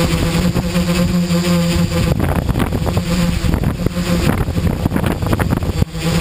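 XAircraft X650 V4 quadcopter's motors and propellers humming at a steady pitch, with gusty wind buffeting the microphone. The hum fades about two seconds in while the wind noise takes over, and comes back near the end.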